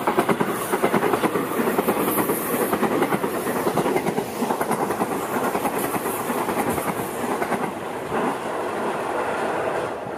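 Electric train on the Seibu Ikebukuro Line passing close by, its wheels clattering rhythmically over the rail joints. The sound comes in loud right away and eases off near the end.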